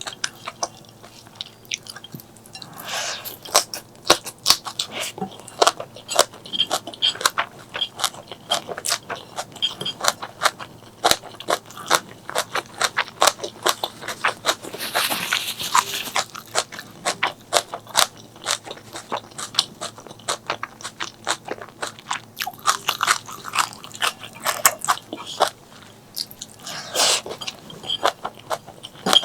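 A person chewing and crunching food close to the microphone, with many irregular crisp crunches and mouth clicks.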